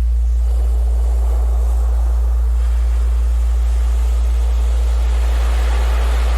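A steady, loud, low-pitched electronic tone, a Rife frequency, sounding over recorded ocean surf. The waves swell in twice, once early and again near the end.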